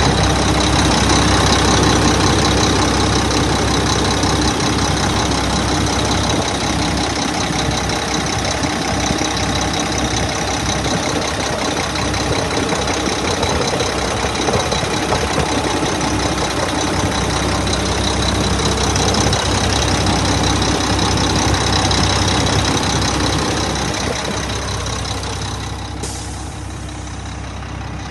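2001 Mack dump truck's diesel engine idling steadily. Near the end it becomes somewhat quieter and duller.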